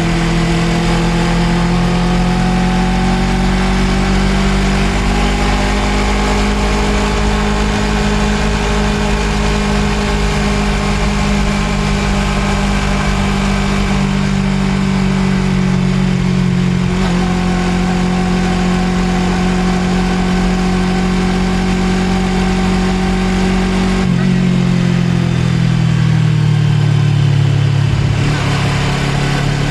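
Suzuki GSX250R's parallel-twin engine running steadily under way, its note held level over a constant rumble of wind and road noise. Near the end the engine note drops and then shifts again, a change of throttle or gear.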